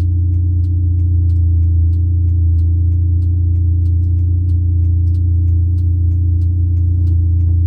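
Supercharged four-cylinder engine of a 2004 Mini Cooper S (Sprintex supercharger, aftermarket exhaust) droning steadily at a constant cruising speed. A light, regular ticking runs about three times a second over it.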